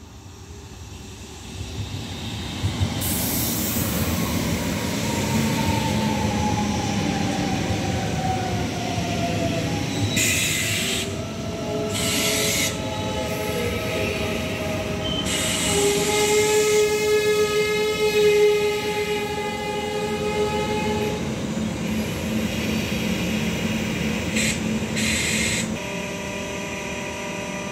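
ICE T electric multiple unit braking into the platform and stopping. Its motor whine falls in pitch as it slows. There are short high hissing bursts and a squeal in the second half, and a steady hum from the standing train near the end.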